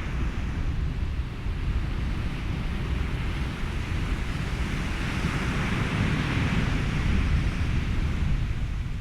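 Ocean waves washing in with wind and a steady low rumble; a wave swells into a brighter hiss about two-thirds of the way through, then ebbs.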